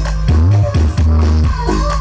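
Electronic dance music with a heavy, pulsing bass line, played very loud through a large parade sound system.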